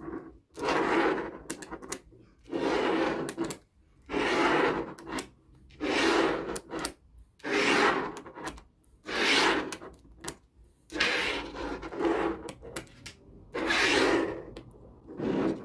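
Small magnetic balls being handled: about ten rubbing strokes, each about a second long and evenly spaced, with small clicks between them.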